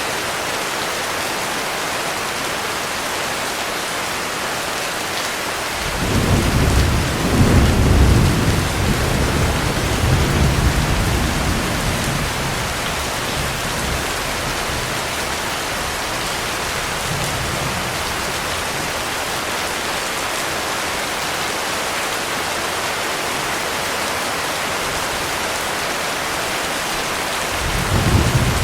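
Heavy rain falling steadily. About six seconds in, a roll of thunder rumbles low for several seconds and fades away, and another roll begins near the end.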